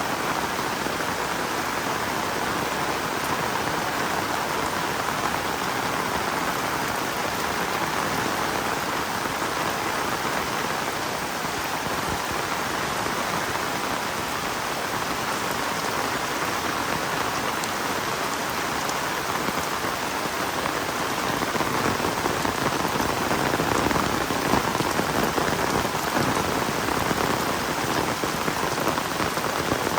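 Heavy rain falling steadily, a dense even hiss of drops that grows a little louder with sharper patter near the end.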